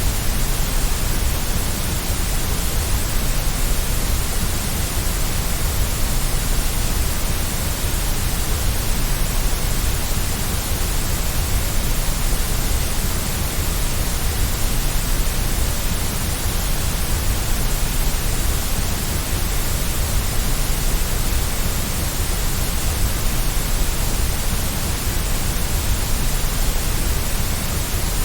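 Steady white noise for baby sleep: an even, unchanging hiss across the whole range, with a low rumble underneath.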